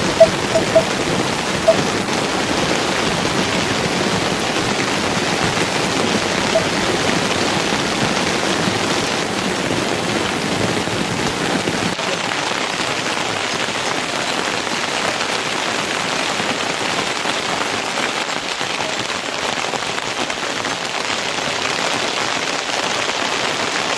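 Heavy rain falling steadily, an even hiss, with a few sharp taps in the first two seconds.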